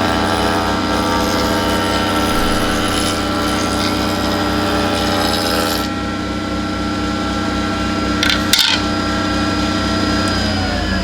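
Delta spindle shaper driven by a VFD, running steadily while its cutter takes a very light chamfer cut in wood for about the first six seconds, then spinning free. There is a short knock about eight and a half seconds in, and the motor starts to wind down near the end.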